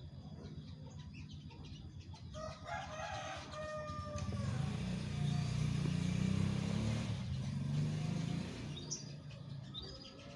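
A rooster crows about two seconds in, with small-bird chirps near the end and a low rumble through the middle.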